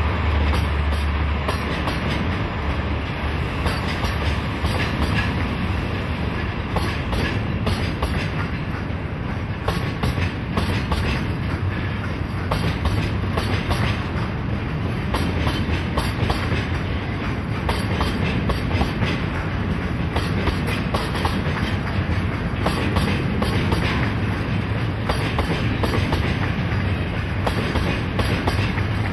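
A freight train of Taki 43000-series oil tank wagons rolling past, the wheels clicking steadily over the rail joints. A diesel locomotive's low engine drone fades in the first second or so.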